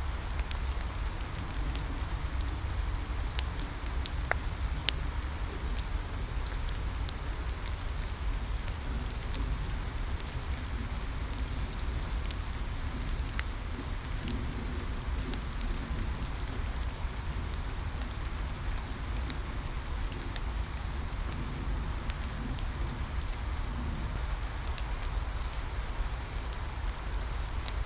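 Steady rain falling, mixed with a bonfire crackling: scattered sharp pops and snaps over the hiss of the rain, with a low rumble underneath.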